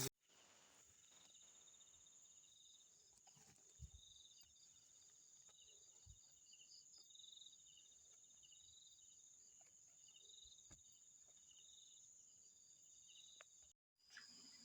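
Faint night insects, crickets chirping: a steady high trill with rows of repeated, pulsing chirps above it, and a few faint clicks.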